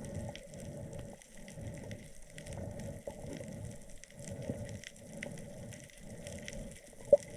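Water swishing around a submerged action camera in a regular pulse, about one swish every 0.7 s, with faint scattered clicks over it. A couple of sharp knocks come right at the end.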